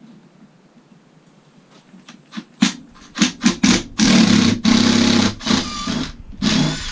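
A few sharp metal clicks as a hex bit is seated. Then a power driver runs in three loud bursts with a rattling, motor-like drone, trying to shift a rusty hex-socket bolt.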